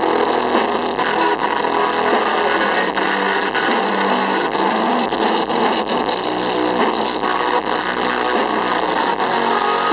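Live rock band playing loudly without vocals, recorded from the audience so that the music comes through as a dense, noisy wall of sound.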